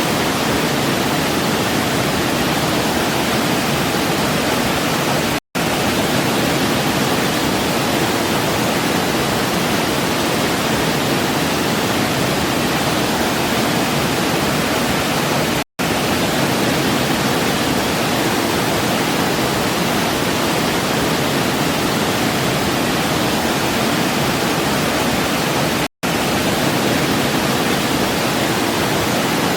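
Waterfall: a steady, even rush of falling water. It cuts out to silence for a split second three times, about ten seconds apart.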